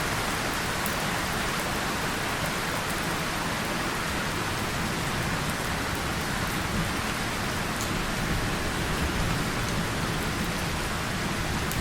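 Steady rain falling on a tin surface and leaves, an even hiss with a few sharp drop ticks.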